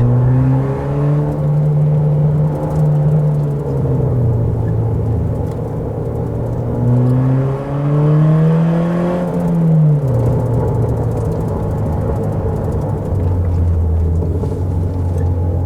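Car engine under load on a winding road, its note rising and falling with the throttle: it climbs in the first couple of seconds, eases off, climbs again around seven to nine seconds and drops sharply about ten seconds in, then runs steadily. The exhaust is louder than normal because the rear silencer box has fallen off.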